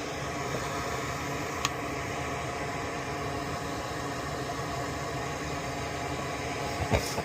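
Steady airy hiss of a small fan running on the workbench, with one light tick about a second and a half in and a couple of small clicks near the end.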